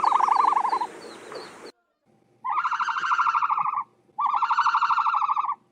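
Bird calls: three fast-pulsing, trilled calls on a steady mid pitch. The first fades out about a second in, and two more follow, each about a second and a half long.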